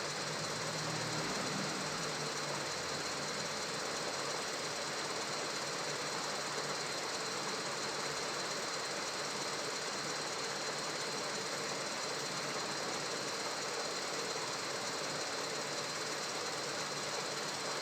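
Repaired treadmill running steadily, with a constant high whine over the motor and belt noise; it is working properly again after the repair.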